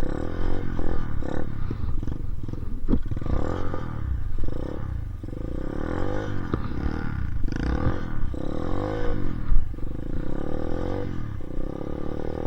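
Dirt bike engine revving up and falling back again and again, its pitch swelling and dropping about half a dozen times, as the rider tries to spin a donut in snow. A couple of sharp knocks come through, the loudest about two-thirds of the way in.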